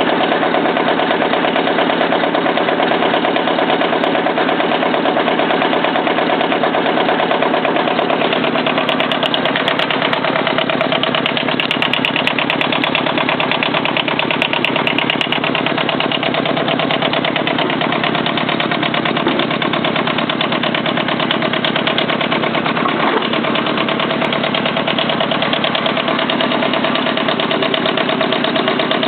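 Kubota engine of a homemade tractor running steadily, with a slight change in its note about a third of the way in and again near the end.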